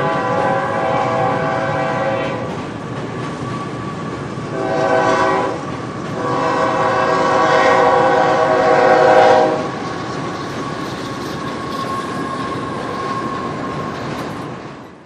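Train horn sounding three times, a long blast, a short one and another long one, over the steady rumble and clatter of a train running on the rails. The sound cuts off abruptly at the end.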